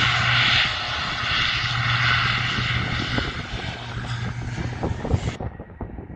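Turboprop aircraft engines and propellers running loud, a steady low drone under a strong hiss. The sound cuts off abruptly about five seconds in.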